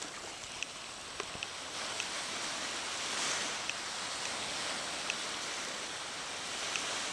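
Surf washing onto a beach: a steady hiss of waves that swells about three seconds in, with a few faint short clicks.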